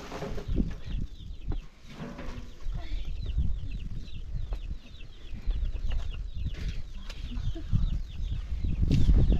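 Domestic fowl calling in runs of short, quick, falling chirps, over a steady low rumble.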